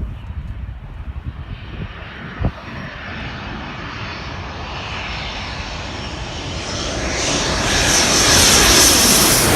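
Military fast jet approaching, its engine noise growing steadily louder and loudest near the end as it nears.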